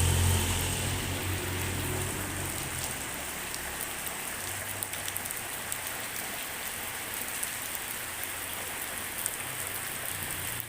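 Steady drizzling rain: an even hiss with many sharp drop ticks on a nearby surface. A low engine hum fades away over the first two seconds.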